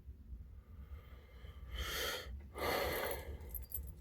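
Two heavy breaths close to the microphone, the second longer and louder, over a faint low rumble.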